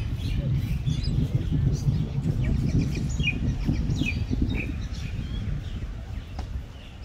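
Birds chirping in many short high calls, some falling in pitch, busiest in the middle, over a steady low rumble that fades near the end.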